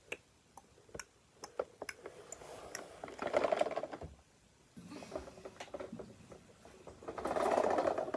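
Plastic toys being handled and moved: a run of light clicks, then two louder rattling stretches, about three seconds in and near the end, like a toy car's wheels rolling over a surface.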